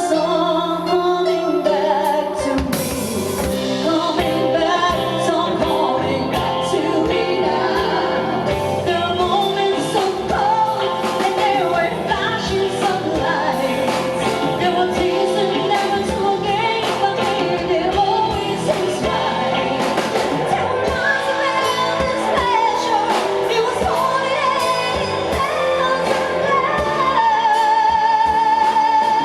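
A live band playing a power ballad with a female lead singer. Near the end she holds a long note with vibrato.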